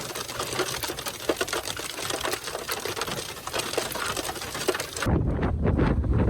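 Hailstones hitting a vehicle's roof and glass in a dense, rapid clatter. About five seconds in it cuts off abruptly to low wind rumble buffeting the microphone.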